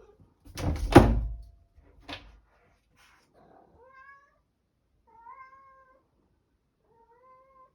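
A cat leaping at a door: a loud thunk against the door about half a second in, a lighter knock near two seconds, then the cat meows three times.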